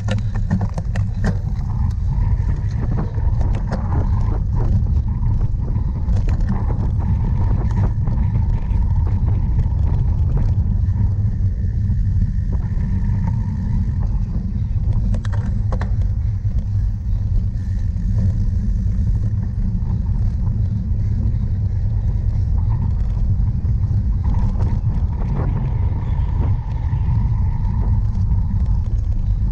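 Steady wind rumble on the microphone of a camera carried on a moving cyclocross bike, with scattered clicks and rattles from the bike over rough ground.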